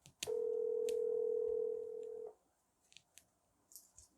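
Telephone ringing tone on an outgoing call: one steady tone lasting about two seconds, followed by a few faint clicks.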